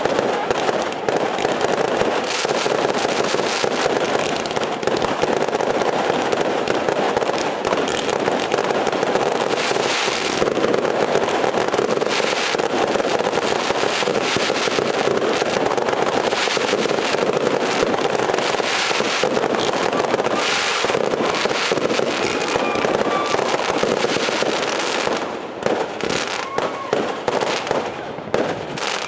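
Dense barrage of aerial fireworks, shells bursting and crackling in rapid succession, thinning out near the end.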